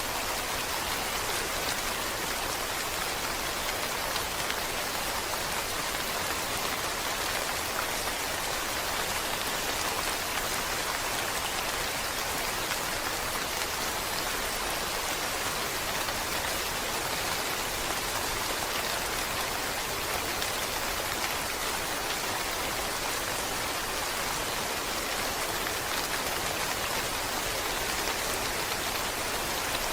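Steady rain falling on a surface, an even hiss of many drops without pause.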